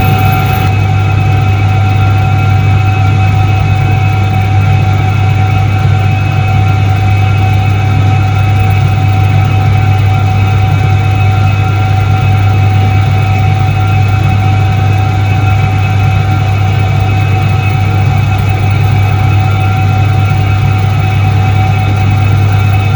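A Soviet Iset-3 washing machine from 1978 running steadily: a loud electric-motor hum with a strong low drone and a few faint, even higher tones, unchanging throughout.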